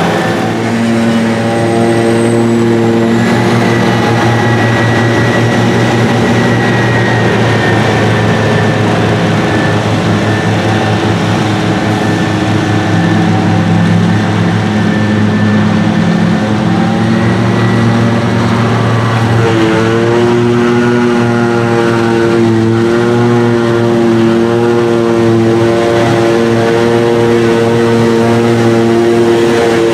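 Heavy diesel farm machinery running steadily under load, a forage harvester and tractor at work chopping and carting grass silage. About two-thirds of the way through the engine note wavers and shifts as a machine changes speed.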